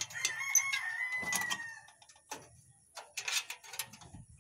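A bird's long call, held for about a second and a half and dipping slightly at the end, followed by a few sharp clicks.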